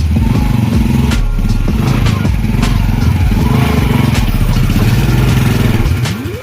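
Motorcycle engine running.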